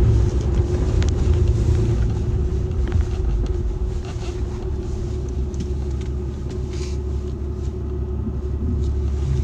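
Steady low rumble of a truck heard from inside the cab, with a constant hum and a few faint clicks.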